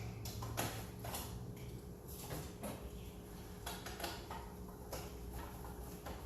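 Scattered light knocks and clicks, about a dozen, from handling metal parts and tools while disconnecting an old gas water heater, over a faint steady hum.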